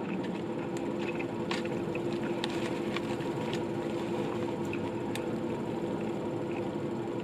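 A steady background hum with scattered short clicks and crunches of someone chewing a bite of a crispy fried chicken sandwich.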